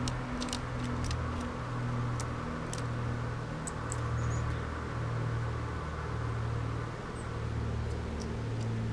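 Steady low rumble of road traffic, with short, high bird chirps and ticks scattered over it, most of them in the first half.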